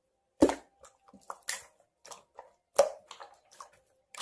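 A few scattered, irregular taps and knocks, the loudest about half a second in and near three seconds in, like hands handling something.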